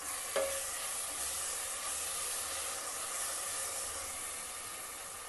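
Onion and red chilli paste masala sizzling in a pan as a spatula stirs it. One sharp clink of the spatula against the pan comes about half a second in, and the sizzle slowly eases off.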